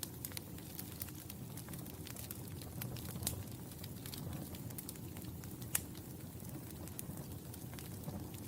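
Wood fire in a fireplace crackling: a steady low rumble of burning with scattered sharp pops, two louder snaps about three and six seconds in.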